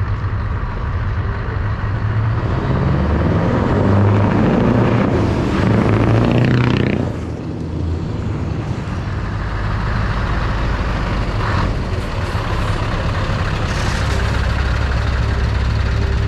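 Scania R560 truck's V8 diesel engine running loud, building up for a few seconds and then dropping off sharply about seven seconds in, after which it runs on steadily. A brief hiss near the end fits an air brake.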